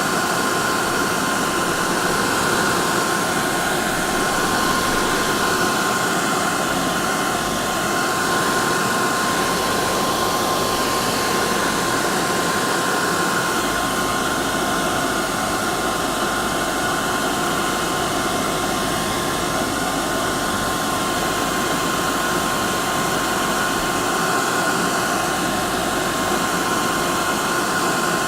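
Electric hair dryer running steadily: a constant rushing hiss of blown air with a steady high whine from the motor and fan.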